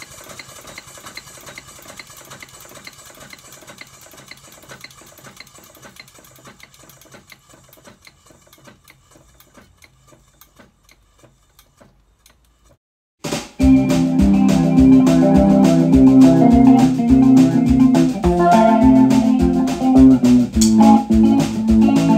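Accucraft 2-4-0 live steam locomotive running on compressed air with its wheels off the ground: a faint, fast, even beat from its pistons and motion that fades away about twelve seconds in. Then loud music with organ and drums starts suddenly.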